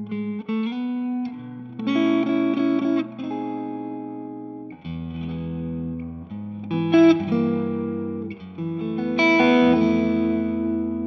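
Electric guitar played through a Two-Rock Classic Reverb Signature tube amp head, sustained chords ringing and changing every second or two. Sharper strummed accents come about two, seven and nine seconds in.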